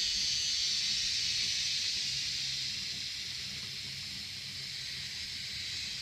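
Cicadas and other insects calling in a steady, high-pitched chorus that eases slightly in the second half.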